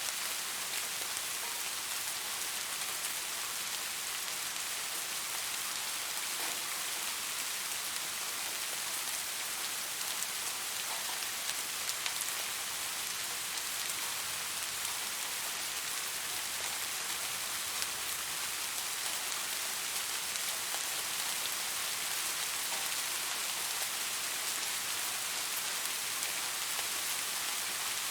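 Steady rainfall, an even hiss of rain on a surface with scattered individual drop ticks.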